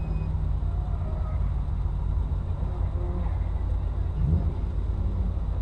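Low, steady rumble of a car engine running, with faint voices near the end.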